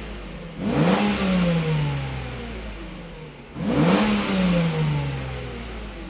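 Mercedes-Benz SL600 V12 on its stock exhaust, revved twice from idle with throttle blips. Each time the note climbs quickly and then winds slowly back down toward idle.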